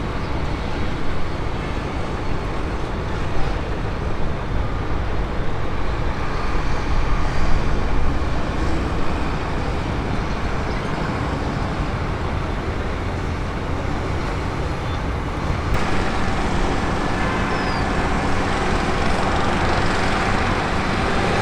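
Steady rumble of aircraft engines mixed with road traffic noise, shifting slightly in character near the end.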